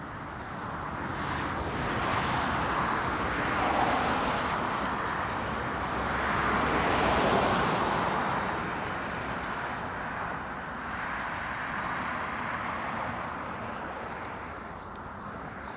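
Jet aircraft passing overhead: a broad rushing rumble that builds over several seconds, peaks about halfway through and slowly fades.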